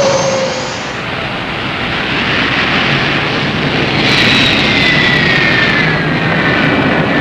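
Jetliner jet engines being started, with a rising turbine whine over the roar as an engine spools up. About four seconds in, high whines slide slowly down over the steady jet roar.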